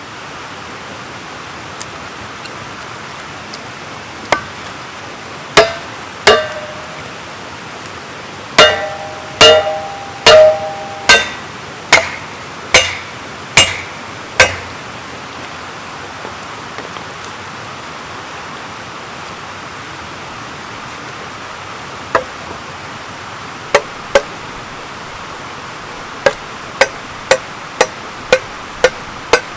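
Hammer blows on a Kindling Cracker, a ductile cast-iron splitting wedge, driving wood down onto its blade to split kindling; some blows leave a short metallic ring. About a dozen strikes come in the first half, then after a pause a quicker run of about two a second near the end, over a steady background hiss.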